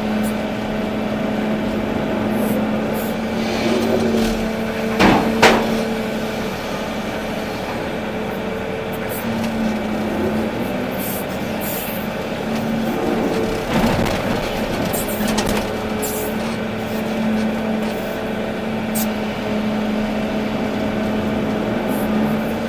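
Volvo EC380D excavator's diesel engine running at a steady pitch while the machine works, with a few sharp knocks and clanks from the bucket and boom, two of them close together about five seconds in.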